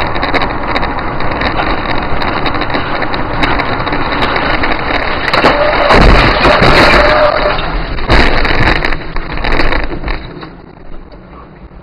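Motor vehicle driving noise, loud and continuous. It swells to its loudest from about six to eight seconds in, then drops away sharply near the end.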